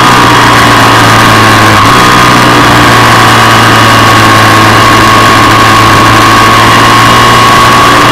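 Ducati 748's 90-degree V-twin engine running hard under load, loud and close from on the bike itself. Its pitch holds steady, sags slightly through the middle, and begins to climb again near the end.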